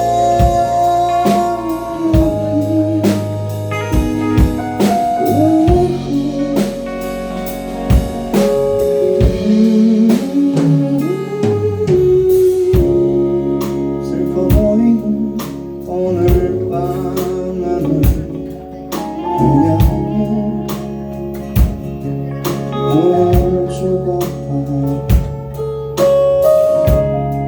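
Live rock band playing an instrumental passage between sung lines: drum kit keeping a steady beat under bass, guitar and keyboard-like sustained melody notes.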